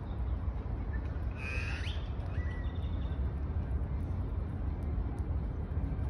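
A bird's short chirping call about a second and a half in, ending in a quick rising note, then a brief thin whistle, over a steady low rumble.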